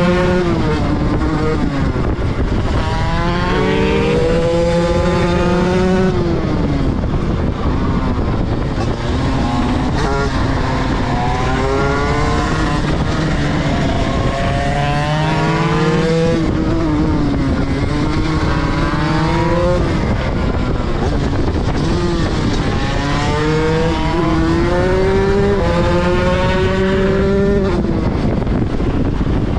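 Motorcycle engine accelerating hard through the gears several times over: the pitch climbs steeply, drops at each upshift and climbs again, with lulls between the runs.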